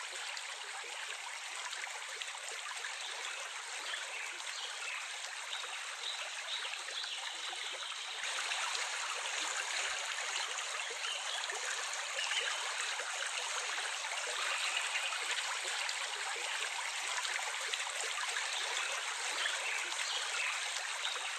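Running water, a small stream flowing steadily, a little louder from about eight seconds in.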